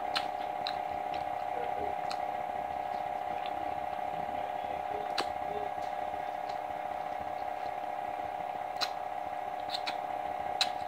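Eating sounds: a few scattered soft clicks and smacks from chewing and picking at fried chicken, over a steady background hum.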